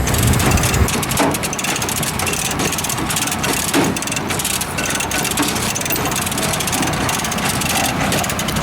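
A vehicle engine running steadily, with scattered clatter over it.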